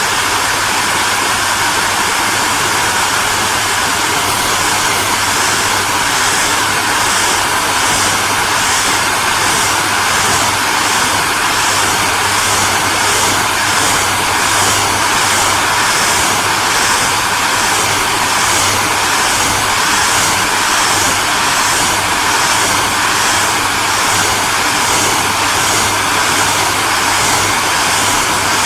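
Hair dryer running steadily: a loud, even rush of air over a low motor hum, with a slight regular pulsing in the high hiss.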